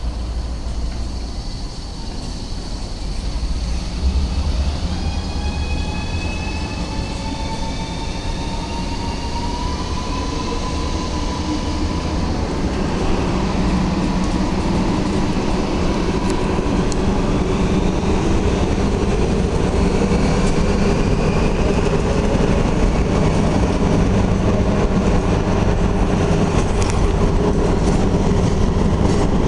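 ADIF class 310 diesel shunting locomotive hauling a freight train past, growing steadily louder. A whine rises in pitch a few seconds in, then gives way to the heavy rumble and clatter of freight wagons rolling on the rails.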